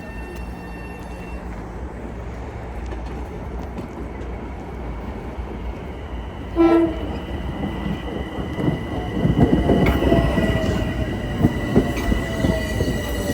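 Metro-North commuter train arriving: one short horn blast about seven seconds in, then the train's rumble and wheel clatter growing louder, with a steady high whine and a faint falling tone over the top.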